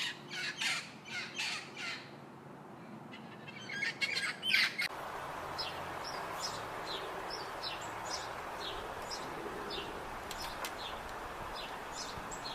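Birds calling: a run of harsh, squawking calls about three a second that fade out, a brief pause, a few more harsh calls, then an abrupt change to short high chirps from small birds over a steady outdoor hiss.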